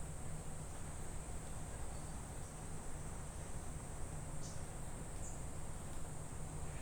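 Insects trilling steadily at a high pitch, with two short bird chirps about two-thirds of the way through, over a low rumble.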